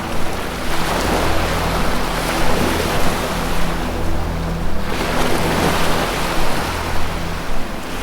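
Ocean surf washing steadily with slow swells, over a low sustained music drone whose notes shift every second or two.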